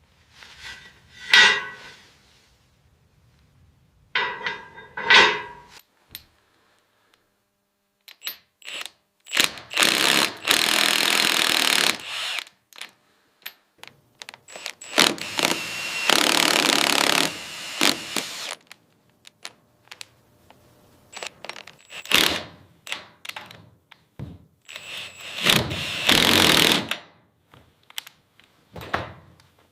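Woodworking tool sounds: a few sharp knocks and clunks of wood, then several steady, coarse cutting or rasping stretches of about two seconds each, separated by short knocks.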